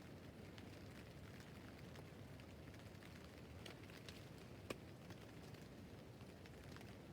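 Rain falling faintly on a tent roof: a low steady hiss with scattered drop ticks, and one sharper, louder tick about two-thirds of the way in.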